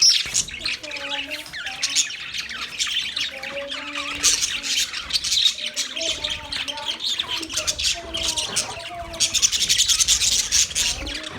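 A flock of budgerigars chattering and squawking without pause: a dense mass of rapid, overlapping chirps and squawks.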